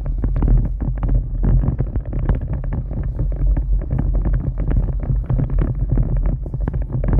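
Storm wind buffeting the microphone in a heavy, continuous low rumble, with a dense, irregular crackle over it.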